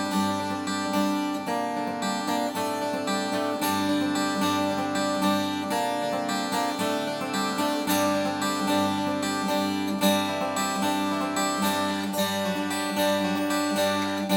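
Vintage Japanese acoustic guitar being played, a steady run of picked notes and strummed chords ringing over one another.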